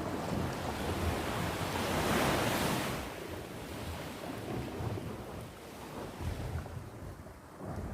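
Sea waves washing on the shore, one surge building to its loudest about two seconds in and then draining away, with an uneven low rumble of wind on the microphone.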